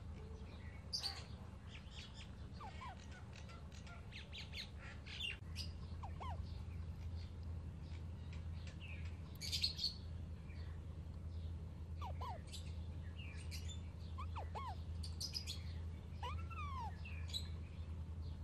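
Baby Alexandrine parakeets chirping, with many short calls throughout and louder ones about a second in and near the middle. A steady low hum runs underneath and grows stronger about five seconds in.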